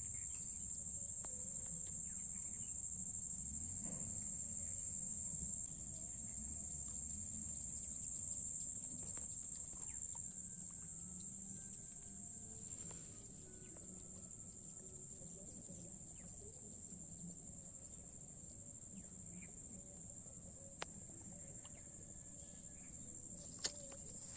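Steady, high-pitched chorus of insects, crickets or similar, with a low background rumble and a sharp click near the end.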